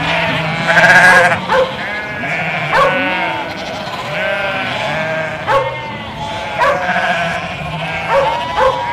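A flock of sheep bleating, many calls overlapping one another, with a dog barking several times in short sharp barks.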